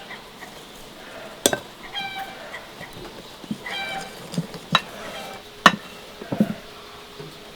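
Short animal calls twice, about two and four seconds in, with several sharp clicks and knocks.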